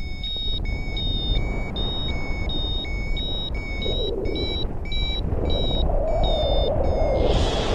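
Short electronic beeps at two alternating pitches, repeating two to three times a second, over a steady wind rumble; a hiss rises near the end.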